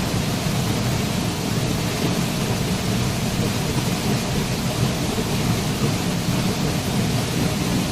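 Waterfall: a steady, even roar of falling water, deepest in the low end.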